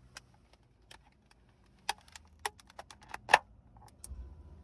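Scattered sharp clicks and taps at an irregular pace, with the loudest about three seconds in, like small hard objects being handled.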